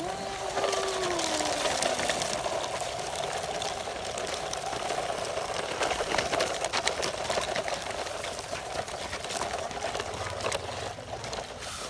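Small electric motor and gearbox of a radio-controlled truck whirring steadily as it drives, a constant whine with scattered crackling clicks.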